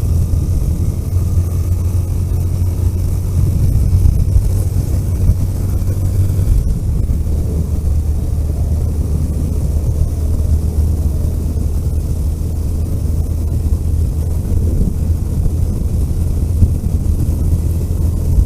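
A car engine's steady low drone mixed with road and tyre noise while driving. About six and a half seconds in there is a brief click, and the engine note steps down slightly.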